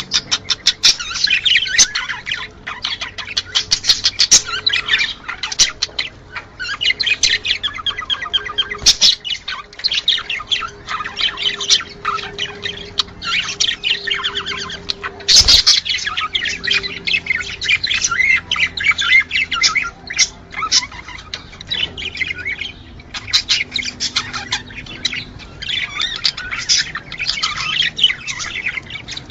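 Budgerigars chattering and warbling continuously, many quick chirps and squawks overlapping, with one sharp click about fifteen seconds in.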